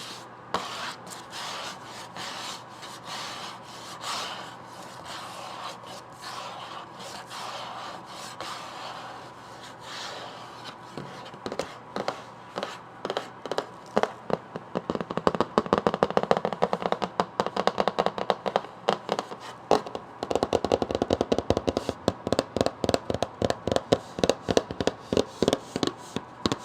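Fingers scratching and rubbing on a book, then tapping on it quickly and repeatedly from about eleven seconds in, the taps growing louder in the second half.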